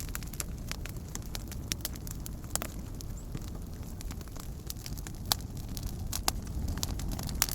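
Wood campfire crackling, with sharp pops scattered irregularly and a few louder snaps, over a steady low rumble.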